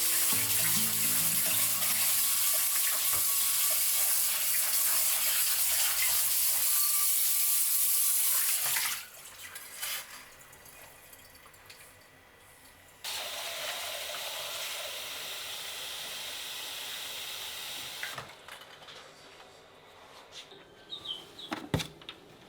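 Tap water running into a kitchen sink, stopping about nine seconds in. It runs again more quietly for a few seconds later, followed by a few light clicks and knocks.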